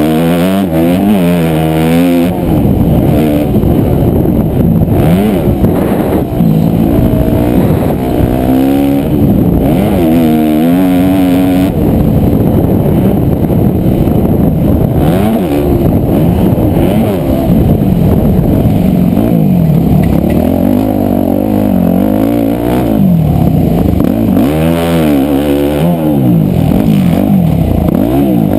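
Motocross dirt bike engine revving hard and backing off again and again, its pitch climbing and dropping with throttle and gear changes, heard loud and close from a GoPro on the bike or rider.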